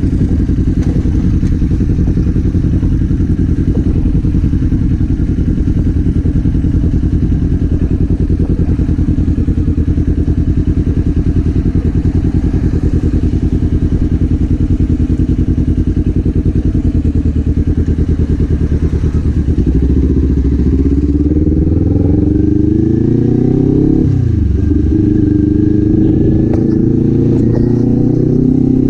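Kawasaki Z400's parallel-twin engine running steadily at low revs, then pulling away about two-thirds in with the revs rising, dropping sharply at an upshift, and rising again.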